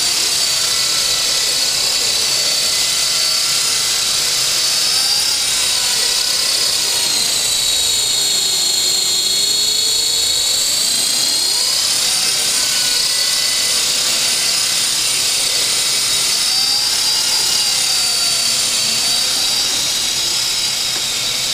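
Small electric motor and propeller of a Kyosho Minium Extra 330SC micro RC plane running in flight: a steady high-pitched whine that wavers slightly up and down in pitch, with fainter lower tones swooping up and down.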